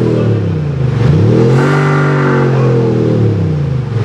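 Jaguar XE diesel revving, its exhaust note boosted by an aftermarket active sound system. The pitch drops as the revs fall about a second in, climbs back and holds, then drops again near the end.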